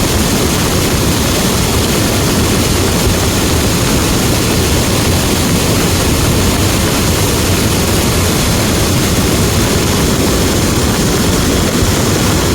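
Steady, loud roar of a large lahar (cold volcanic mudflow) surging down the river channel, mixed with the noise of heavy rain.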